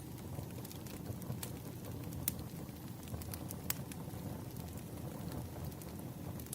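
Campfire crackling: a steady low rumble of burning with irregular sharp pops and snaps.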